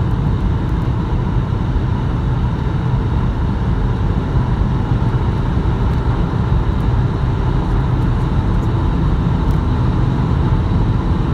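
Volkswagen Passat 2.5 TDI V6 diesel with its catalytic converter removed, driving under way: a loud, steady low engine and road noise that holds even, with no clear rise in pitch.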